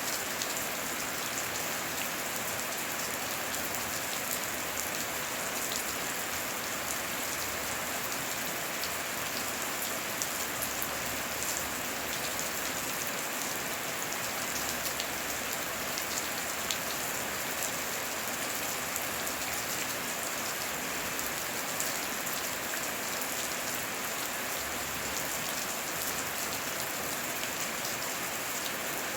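Steady heavy rain with many individual drops pattering on surfaces.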